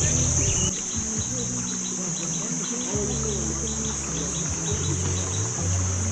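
Jungle insects buzzing steadily in a high-pitched drone, with quicker pulsing chirps of about three a second laid over it.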